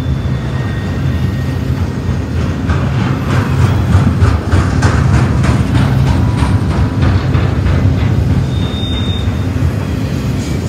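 Double-stack intermodal freight cars rolling past at close range: a steady low rumble of wheels on rail. A run of rapid wheel clicks comes from about two and a half to eight seconds in.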